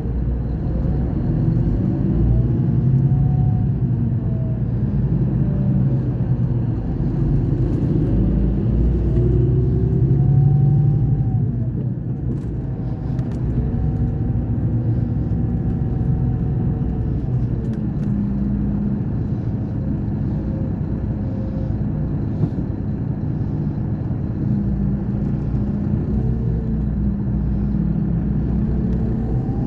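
Scania K420 bus engine running, a steady low rumble whose pitch rises and falls several times as engine speed changes, easing off briefly about twelve seconds in.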